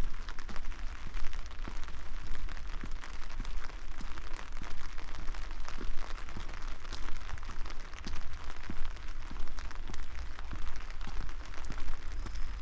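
Steady rain with many sharp individual drops hitting close to the microphone, over a constant low rumble.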